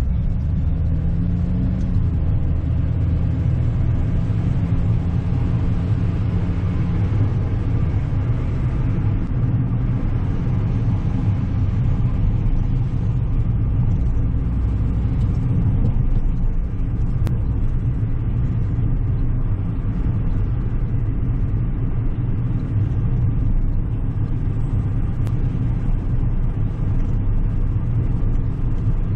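Steady low rumble of a car being driven: engine and tyre noise heard from inside the car, with a faint steady engine hum for the first several seconds.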